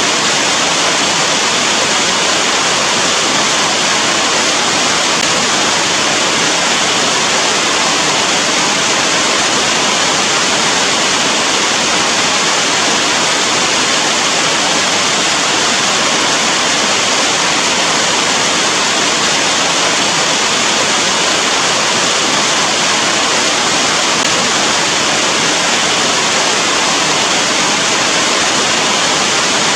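Steady rain falling: a dense, even hiss with no single drops standing out.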